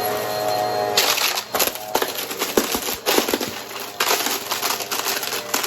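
Vacuum cleaner with a spinning brushroll sucking up crunchy debris from carpet, a dense irregular crackling and clicking. A steady motor whine is clear at first and is buried under the crackling from about a second in.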